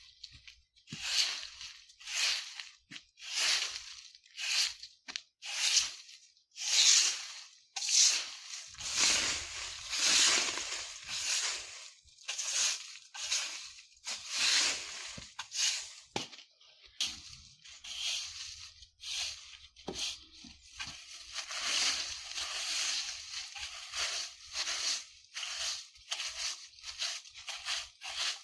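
Broom sweeping dry leaves over the ground in repeated swishing, rustling strokes, about one a second. From about two-thirds of the way in, the strokes become shorter and quicker and run together.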